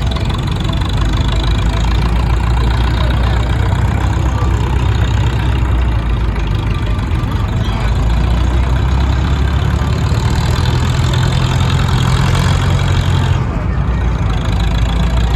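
Large tractor engine at a tractor pull running at a steady speed, with a deep, low pitch that shifts slightly about thirteen seconds in.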